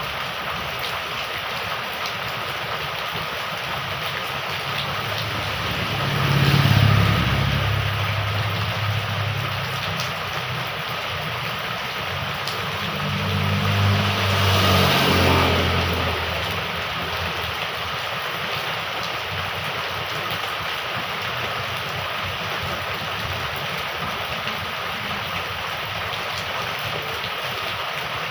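Heavy rain falling steadily, with two motor vehicles passing by, the first about six seconds in and the second around fourteen seconds, each rising and then fading.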